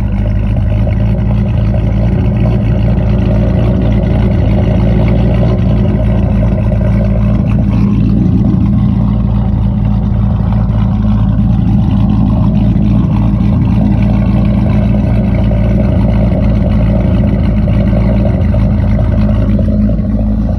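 Car engine idling steadily through a dual exhaust with Dynomax Bullet mufflers, an H-pipe and an X-pipe, after a cold start.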